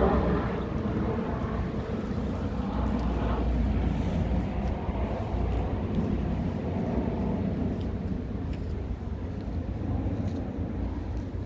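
Scania R450 truck's 13-litre inline-six diesel engine running steadily at a constant speed, with no revving.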